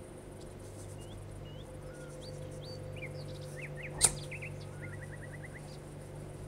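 A small bird chirping in the background: scattered short rising chirps and a quick run of about six notes, over a steady low hum. A single sharp click about four seconds in.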